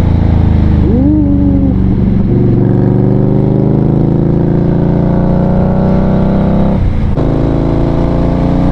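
2020 Indian Scout Bobber Twenty's V-twin engine pulling under acceleration, its pitch rising steadily. It drops briefly for a gear change about seven seconds in, then rises again.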